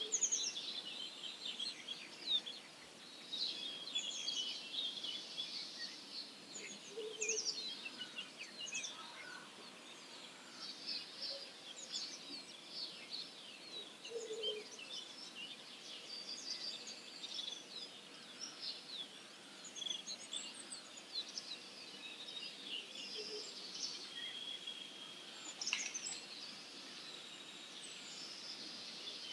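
Dawn chorus of wild songbirds: many overlapping chirps, trills and song phrases. A short low call recurs about every seven seconds beneath them.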